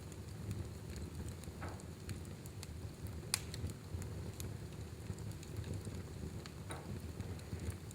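Wood fire burning in a fireplace: a steady low rumble of flames with scattered crackles and pops, the sharpest pop about three and a half seconds in, and a couple of brief hisses.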